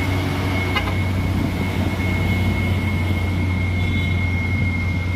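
Heavy truck engine running steadily under load, a continuous low drone with a thin, steady high whine alongside.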